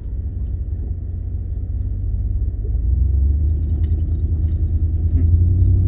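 Low rumble of a 2015 Ford F-150's 5.0 V8 and road noise heard inside the cab while driving, getting louder about halfway through. The engine is running without hiccups on its replacement throttle body.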